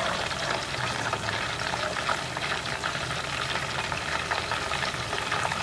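Battered chicken pieces deep-frying in hot oil, the oil bubbling and crackling steadily.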